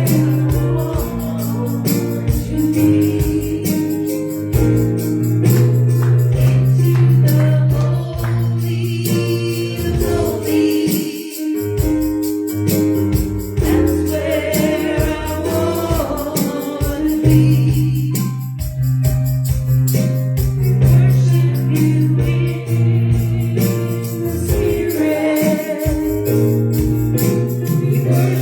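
Live gospel worship music: a band plays a steady bass line under a shaken tambourine, with voices singing.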